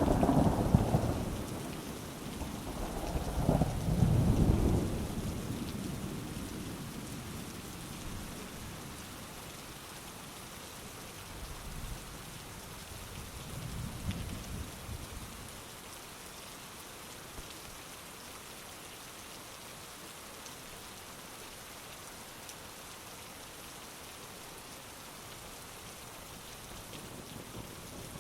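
Steady heavy rain with rolling thunder. A rumble fades away at the start, another rolls through about four seconds in, and a fainter one comes midway; after that only the rain goes on.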